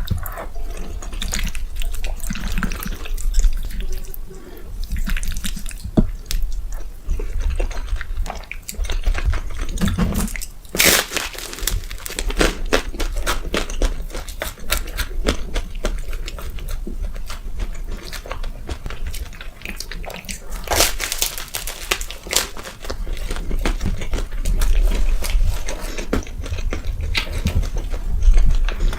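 Close-miked eating: wet chewing and smacking of food, full of small wet clicks, with two louder stretches about 11 and 21 seconds in.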